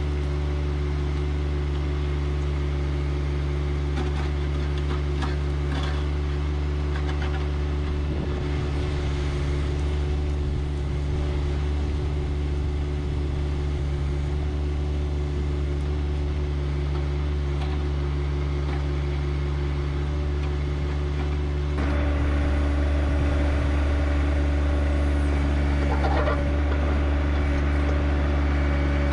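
John Deere 1025R compact tractor's three-cylinder diesel engine running steadily, its note stepping up louder about three-quarters of the way through.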